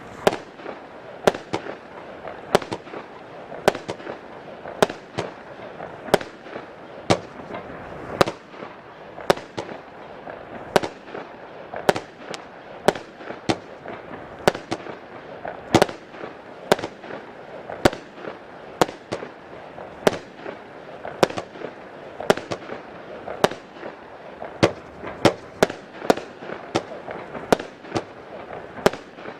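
Gemstone Crazy Clown 36-shot firework cake with 20 mm tubes firing. Sharp shots come about one a second over a steady hiss, and they come faster near the end.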